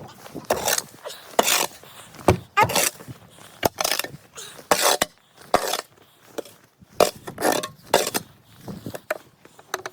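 Stored things being shifted and pushed aside while rummaging: irregular scrapes and rustles with a few sharp knocks.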